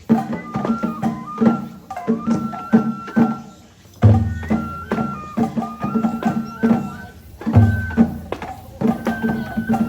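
Japanese festival hayashi music for a lion dance: a flute holding and stepping between high notes over quick, steady drum strokes. The music dips briefly, then a deep drum boom comes in about four seconds in and again near eight seconds.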